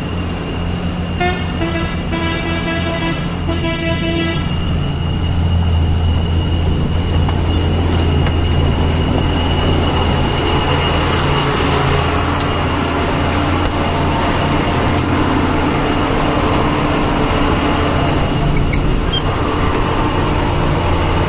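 Truck engine running with a steady low drone, growing a little louder about five seconds in. A horn honks in a few blasts starting about a second in, the longest lasting about two seconds.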